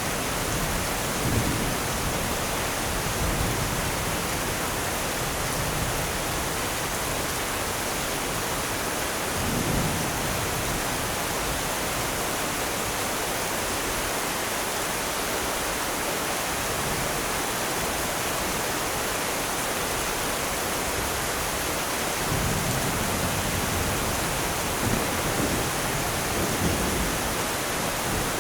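Steady heavy rain hissing, with distant thunder rumbling low several times: near the start, about a third of the way in, and again through the last few seconds.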